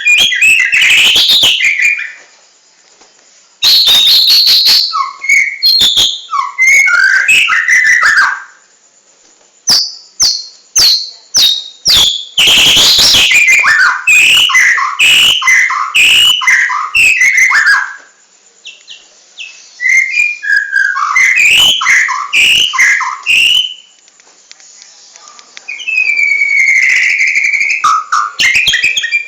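A songbird singing loudly and close up in bursts of rapid whistled and chirping notes. The phrases are broken by short pauses of a second or two.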